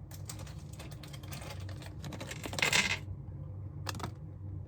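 Small hard plastic action-figure parts clicking and tapping as they are handled, with a brief louder rustling scrape a little past the middle and a single sharp click near the end.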